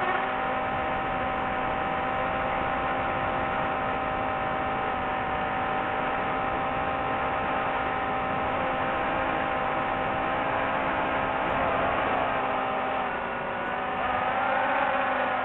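Small multirotor drone's propellers whining steadily as it hovers, with several held tones; the pitch shifts briefly near the end as it manoeuvres.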